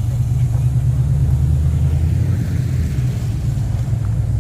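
A car engine running with a steady deep hum.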